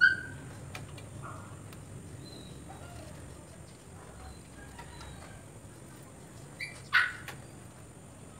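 Bird calls: a short chirp right at the start and a louder call about seven seconds in, with a few faint clicks between them.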